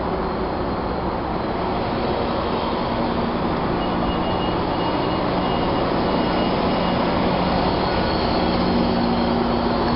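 Trinity Railway Express commuter train running on the rails, heard from inside the passenger car: a steady rumble and hiss that grows a little louder. A faint, repeated high tone sounds for a few seconds in the middle.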